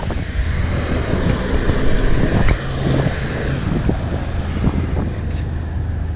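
A motor vehicle running steadily, with a low engine hum under road and wind noise.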